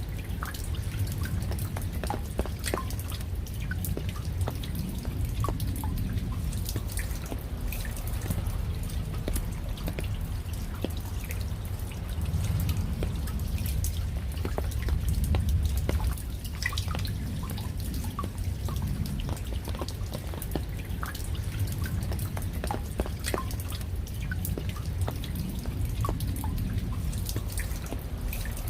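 Rain falling, heard as many separate drops ticking and dripping at an uneven pace over a steady low rumble.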